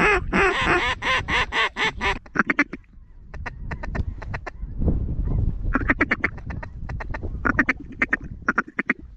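Mallard-style quacking: a rapid string of loud quacks, a pause with scattered short clucks, then another run of quacks about six seconds in. A low wind rumble runs underneath.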